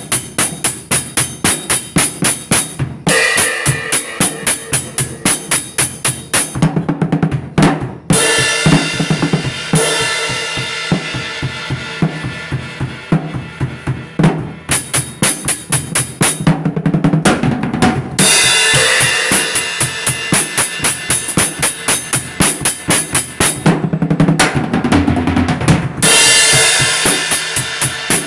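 Music with a fast drum-kit beat: bass drum and snare hits at about four a second, running in sections that break off and change a few times.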